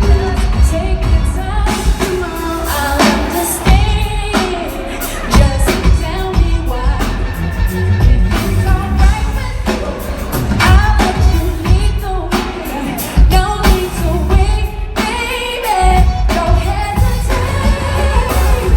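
Live R&B concert music: singing over a loud band with heavy bass and a steady drum beat.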